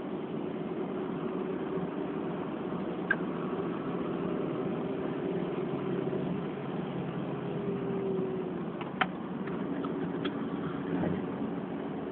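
Engine of a Nissan 1.4-litre production car running steadily under way, heard from inside the cabin with road and wind noise. A few sharp clicks cut in, one about 3 seconds in and a louder cluster about 9 seconds in.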